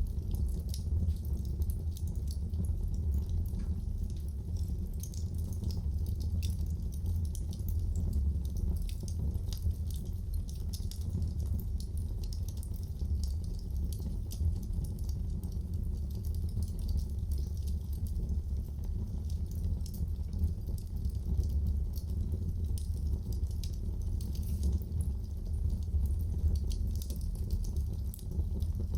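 Wood fire burning in a fireplace: a steady low rumble of flames with many small, irregular crackles and pops throughout.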